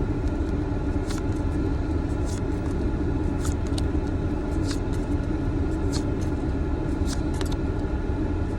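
Steady hum of an idling car heard from inside the cabin, with light clicks and snaps of trading cards being flipped through about every half second to a second.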